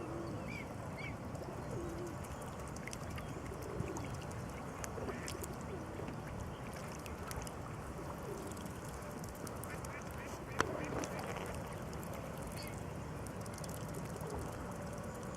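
Waterfowl calling: a scattering of short low calls, with a couple of high peeps in the first second, over steady background noise. A single sharp click sounds about two-thirds of the way through.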